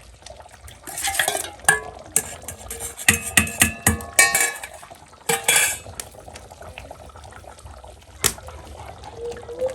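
A spoon stirring fish sauce in a cooking pot, clinking and scraping against its sides. There is a quick run of clinks from about three to four and a half seconds in, and one sharp knock near the end.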